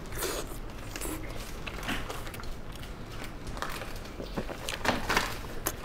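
Close-miked chewing of soft braised sausage, with scattered small wet mouth clicks, a few louder ones near the end.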